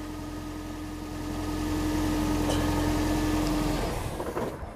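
A car engine idling, a steady low hum with one held tone. It grows louder about a second in and fades near the end.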